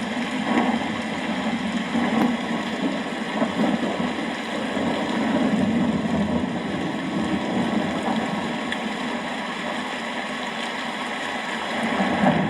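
Steady rain, with a low rumble of distant thunder that swells a little in the middle and again near the end.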